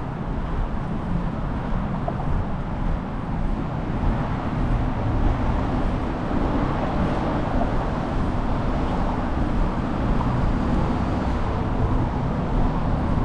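Steady wind rumble on a cycling camera's microphone mixed with road traffic noise from cars.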